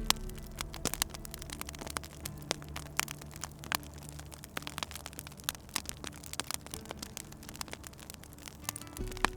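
Wood fire crackling, with irregular sharp pops and snaps several times a second over a low steady hum.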